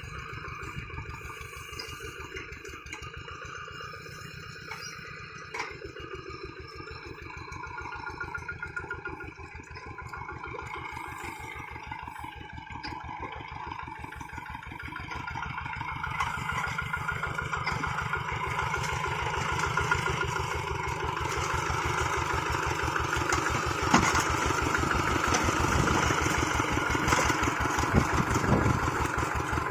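Two-wheel hand tractor's engine chugging steadily, growing louder about halfway through.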